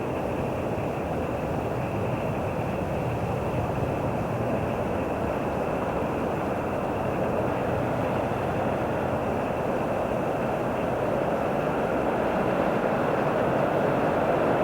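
Train running on the track, a steady rumble that slowly grows louder toward the end.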